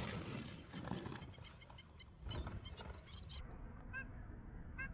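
Birds calling in rapid series of short, high, rising chirps, thinning to a few spaced calls near the end.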